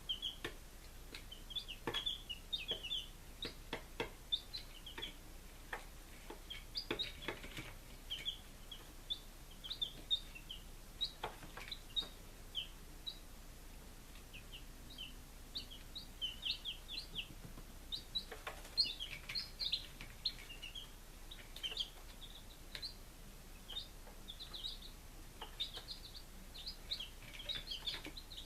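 Five-day-old baby chicks peeping: a busy stream of short, high chirps, mixed with scattered sharp taps.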